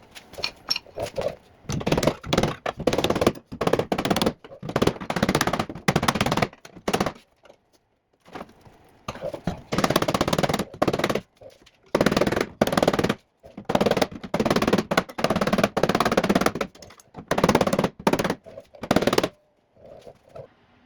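Welding arc crackling in a series of short runs, each about half a second to a second and a half, with brief pauses between, as the bottom seam of a new steel rocker panel is welded to the car body.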